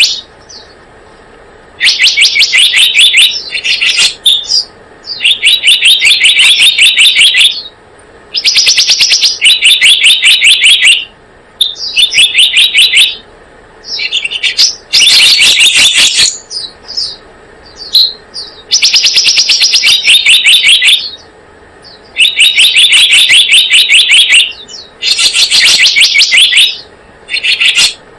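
Looped lure recording of the 'selendang biru' bird calling: loud phrases of rapid, evenly repeated high chirps, each phrase about a second long, repeated with short pauses.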